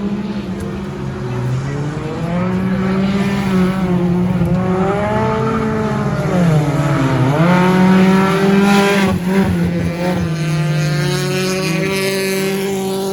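Several stock car engines racing around the track, their pitch dipping and climbing again as they lift and accelerate, loudest about eight seconds in.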